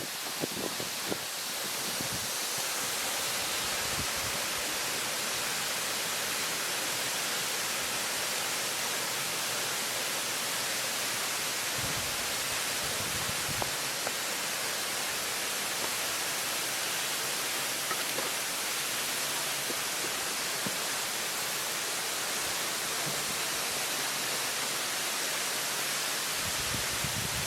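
Waterfall close up: a steady, even rush of falling water, with a few low bumps in the first couple of seconds.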